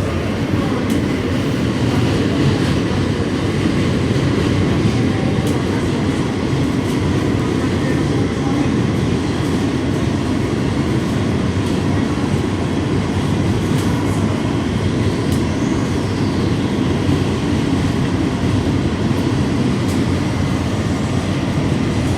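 New York City subway train running between stations, heard from inside the car: a steady rumble of wheels on the rails with scattered clicks. A faint whine rises and falls about two-thirds of the way through.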